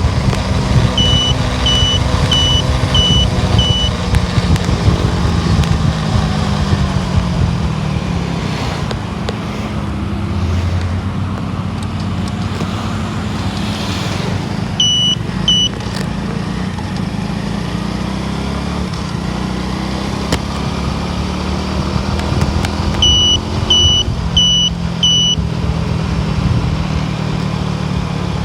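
Car driving on the road: steady engine and road noise, with the engine note sliding down as it changes speed. Runs of short, high beeps come several times, about two a second.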